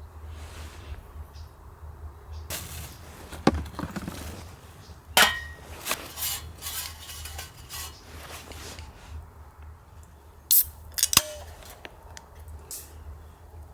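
Metal camp cookware and utensils being handled: a series of clinks and clanks, with a few sharp knocks, two of which ring briefly, over a steady low rumble.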